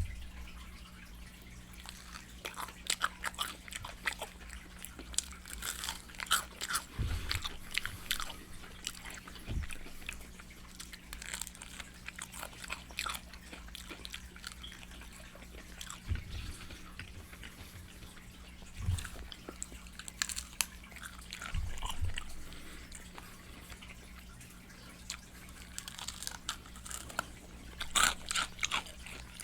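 Close-miked chewing of Popeyes fried chicken: crispy crunching and wet mouth smacking in irregular bites, with a few low thumps and a faint steady hum underneath.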